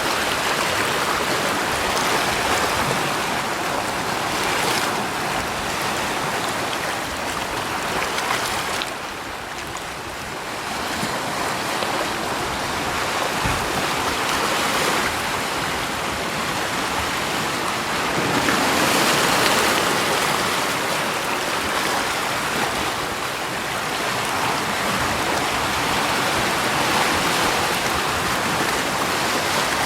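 Continuous rushing water, a dense hiss that eases for a moment a third of the way in and swells again a little past halfway.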